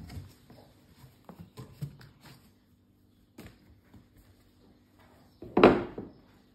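Household objects being handled and set down: a series of light knocks and taps, then one louder thump with a rustle about five and a half seconds in.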